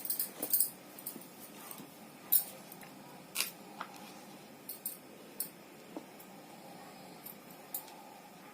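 Scattered light clicks and crinkles of small things being handled, over a faint steady background hum.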